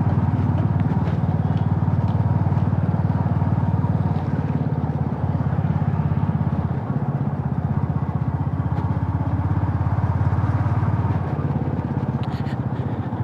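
Motorcycle engine running steadily under way, with a low, even pulsing drone and road and wind noise.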